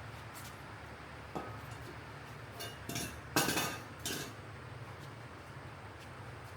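A few light clinks and taps of hard objects, clustered about three to four seconds in, over a faint steady background hum.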